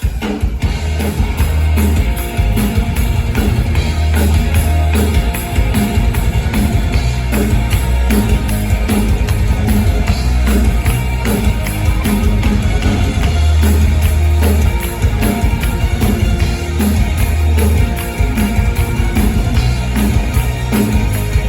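Rock band playing live, with a steady drum-kit beat and heavy bass.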